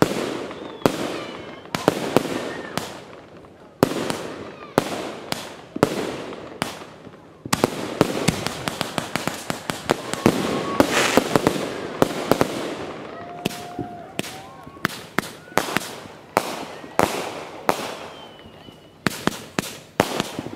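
Aerial fireworks bursting one after another: sharp booms, each trailing off, with a dense run of overlapping bursts and crackle in the middle.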